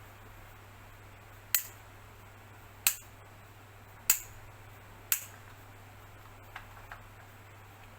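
Sharp clicks: four loud ones about a second apart, then two faint ones close together, over a low steady hum.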